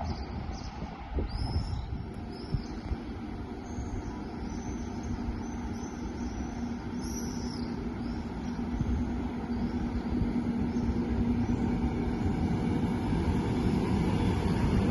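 A train approaching through a railway station: its low rumble and a steady hum grow gradually louder.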